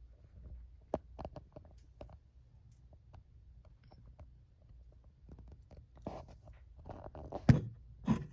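Scattered light clicks and rustling handling noises over a faint low hum, with a sharp click about seven and a half seconds in and another just before the end.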